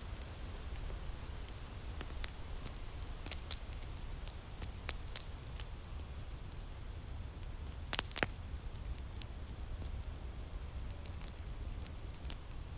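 Fire crackling with irregular sharp pops, a couple of them louder, over a steady low rumble of winter wind.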